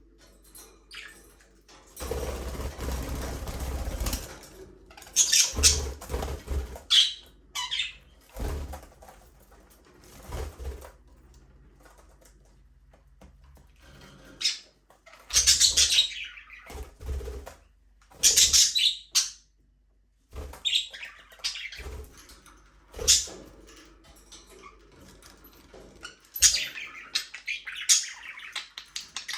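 Budgerigars chirping and calling in short scattered bursts, with bouts of wing flapping as they fly about, including a longer flutter about two seconds in.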